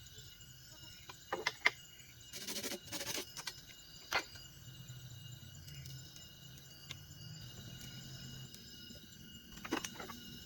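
Night forest insect chorus, several steady high-pitched trills running together. A few short knocks and a brief rustle come about two to three seconds in, with another pair of knocks near the end.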